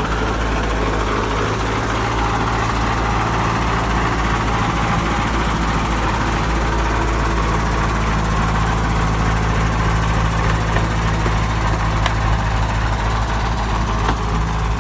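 Heavy truck engine running at a steady speed, an even drone that holds the same pitch throughout.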